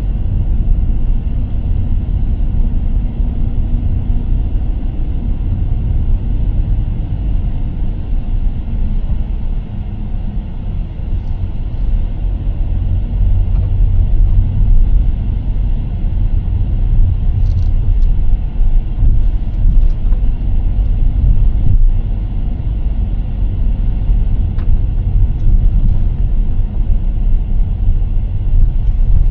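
A car driving along a road: a steady low rumble of the moving vehicle, with no letting up.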